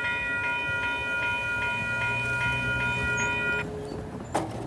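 Railroad crossing warning bell ringing with a rapid, steady clang, about two to three strikes a second, then cutting off about three and a half seconds in. A low steady engine hum runs underneath, and a single knock comes near the end.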